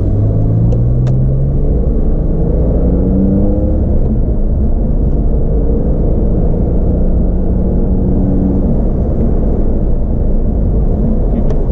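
Porsche 911 (997) Carrera's naturally aspirated flat-six engine pulling under acceleration, rising in pitch over the first few seconds, then running at a steadier pitch, heard from inside the cabin over a constant low road rumble.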